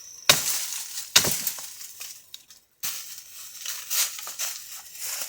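Two sharp axe strikes into wood, about a second apart, followed by crackling and rustling of dry branches.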